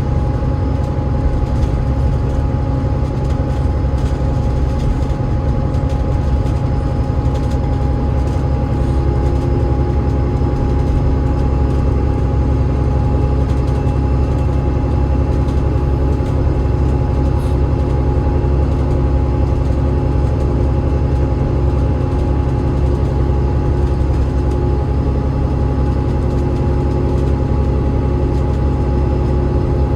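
Double-decker bus running steadily, its Cummins ISL8.9 diesel engine and ZF EcoLife automatic gearbox making a loud, even low drone with a steady whine on top. A second, lower whine joins about nine seconds in and holds.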